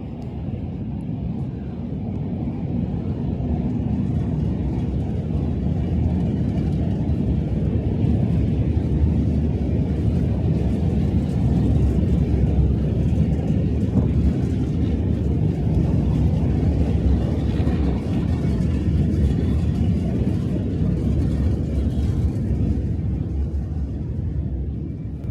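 Steady low rumble of a moving vehicle, building over the first few seconds and easing off near the end.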